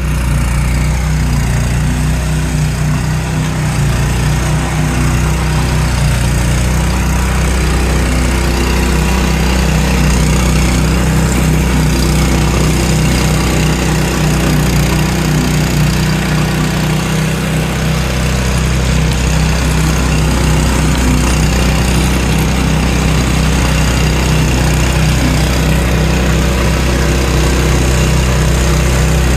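Flail mower running steadily, its engine droning at a constant speed with no pauses or changes in pitch.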